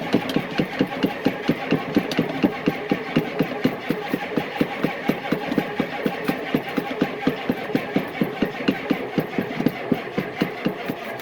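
Old diesel truck engine being cranked over by its starter without catching: an even beat of compression strokes, several a second, that stops near the end. It fails to fire, and the owner suspects air getting into the fuel system.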